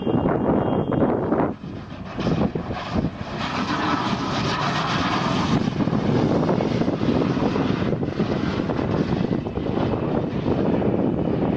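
Steady rushing noise of a moving vehicle: road and wind noise, with a brief drop about one and a half seconds in.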